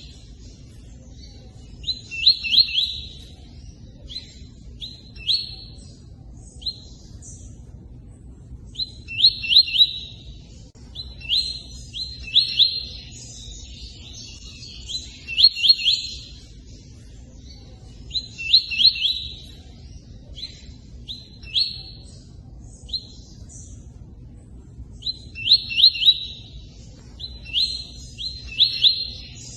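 A songbird repeating the 'tui-tui' song, short phrases of quick whistled notes with brief pauses between them, over the steady rush of running water.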